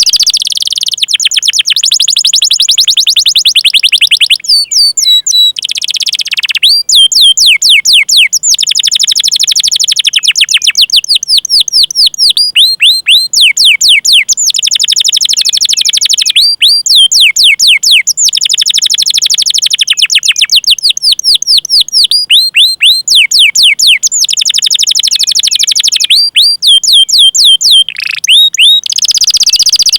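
A domestic canary singing: long rolling trills of very rapid repeated notes, alternating with runs of sharp sweeping 'cuit cuit' chirps, in phrases of a few seconds with brief pauses between them.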